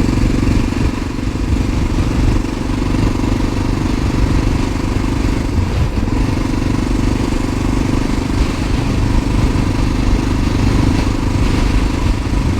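1988 Honda NX650 Dominator's single-cylinder four-stroke engine running steadily under way, its revs dipping briefly and picking up again about halfway through.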